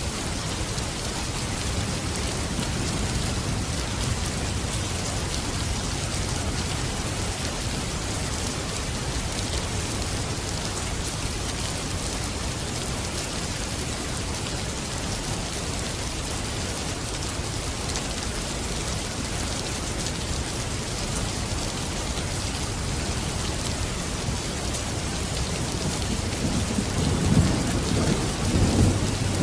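Steady, heavy rainfall. A low rumble of thunder swells up near the end.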